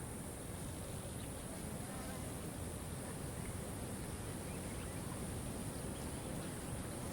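Steady rush of a waterfall, with a constant high hiss or buzz above it that does not change.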